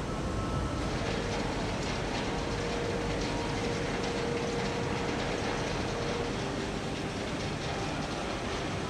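Steady heavy steel-plant machinery rumble with rapid fine rattling clicks over it and a faint steady hum that fades out a few seconds in.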